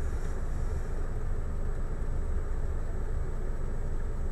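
Steady low rumble of a car driving, as picked up by a dash cam, with a faint steady high-pitched tone over it.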